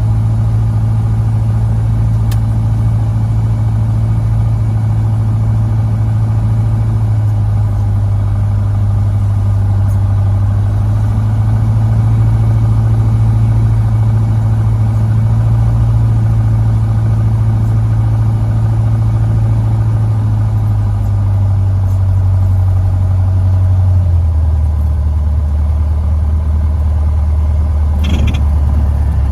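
Cessna 150's Continental O-200 four-cylinder aircraft engine running steadily. Its pitch steps down twice, about two-thirds of the way through and again a few seconds later, as power is reduced. A brief click comes near the end.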